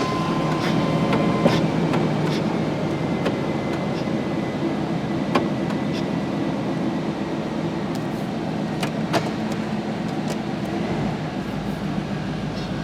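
1995 Chevy Tahoe's throttle-body-injected V8 running as the truck is driven on a test drive after brake-line and exhaust repairs, a steady low hum. A steady high beep sounds at first and stops about a second and a half in, and there are a few light clicks and rattles.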